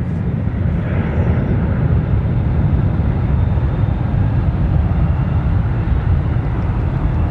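Jet airliner engines rumbling steadily, a deep, even noise with no breaks.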